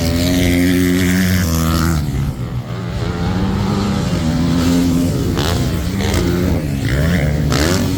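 Motocross bikes racing on the track, their engines revving: a steady pitch for about two seconds, then rising and falling as the riders work the throttle.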